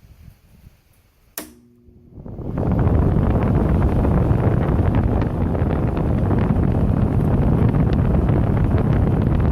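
A click, then after a short near-silent gap the Arctic King WWK05CM71N window air conditioner's fan spins up on high and blows a loud, steady rush of air, with the airflow buffeting the microphone.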